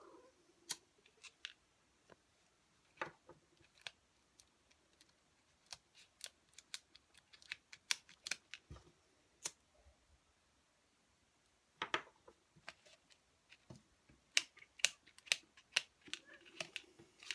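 Irregular sharp clicks and small snaps, some in quick clusters, from close handling of twigs, a leaf and sticky pine sap while a leaf is glued onto a small stick boat.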